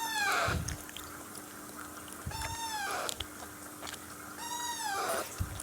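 Alexandrine parakeet chicks giving rasping, meow-like begging calls while being hand-fed, about three calls repeating roughly every two seconds, each arching up and then falling in pitch.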